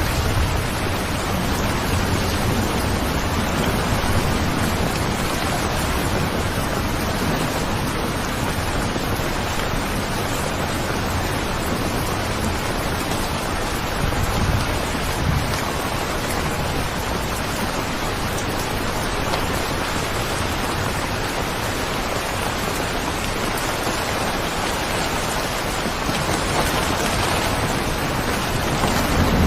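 Steady rain falling, an even hiss of many drops, with a low rumble swelling in places.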